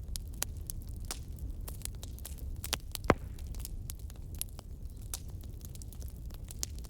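Fireplace fire crackling: irregular snaps and pops over a low steady rumble, with one loud pop about three seconds in.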